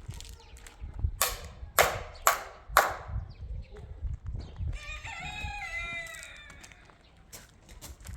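A rooster crowing, one drawn-out call a little after the middle. It is preceded by four short, loud scraping or knocking noises about half a second apart.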